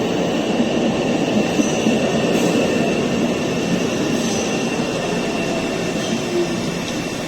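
MBTA Orange Line subway train pulling into the station platform, a steady noise of the cars and wheels running slowly past.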